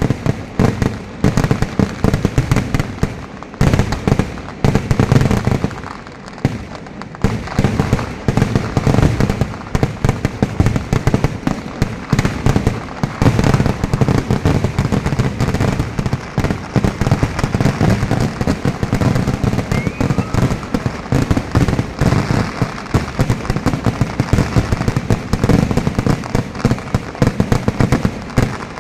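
A dense barrage of fireworks going off in rapid succession, one bang on top of the next, easing briefly about six seconds in before the barrage picks up again.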